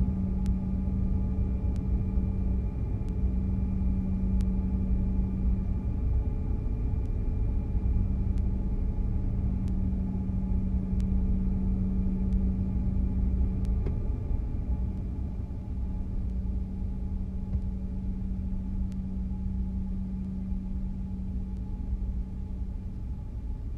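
Cabin noise inside a taxiing Canadair regional jet: the steady drone and hum of its jet engines over a low rumble from the taxiway, with a few faint clicks. It eases slightly in the last third.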